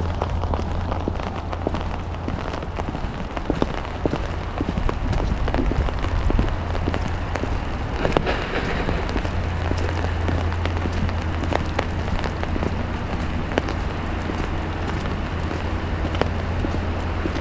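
Rain mixed with wet snow falling and pattering on surfaces: many small drop ticks over a steady hiss, with a constant low rumble underneath.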